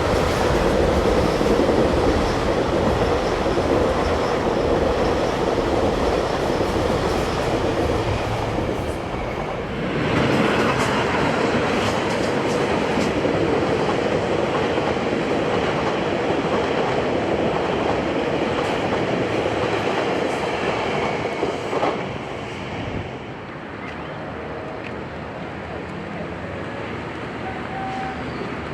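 Passenger train rolling by, its wheels clattering over the rail joints. The noise stays loud for about twenty seconds, with a brief dip about ten seconds in, then drops off as the train moves away.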